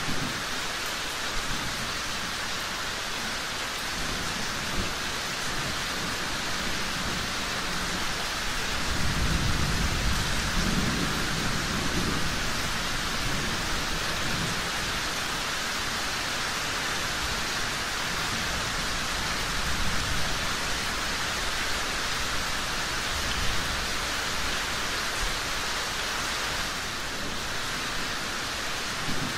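Steady hiss of heavy rain, with a low rumble of thunder that swells about a third of the way in and fades off. A few brief sharp pops stand out from the rain.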